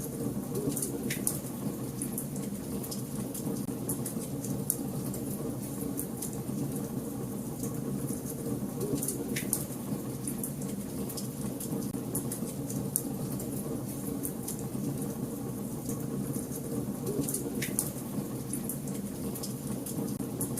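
Wood fire in a fireplace crackling: frequent small, sharp crackles over a steady low rumble, with a few louder pops.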